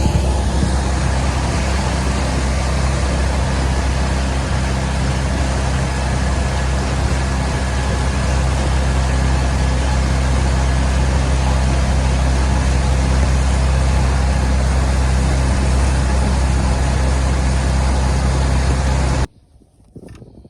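Boat's outboard motor running steadily under way, with wind and hull noise over it; it stops abruptly about a second before the end, followed by a few faint knocks.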